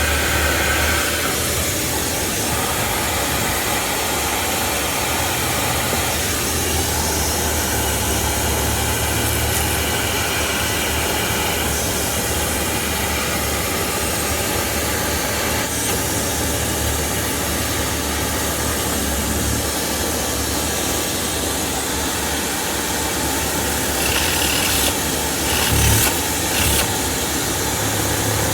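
A motor running steadily with a loud even hiss over a low hum, and a few knocks near the end.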